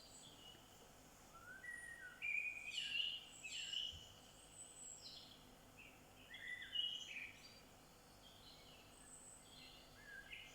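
Wild birds singing: quick chirps and short sweeping notes in bursts, busiest about two seconds in and again around six seconds, fainter near the end, over a faint outdoor hiss.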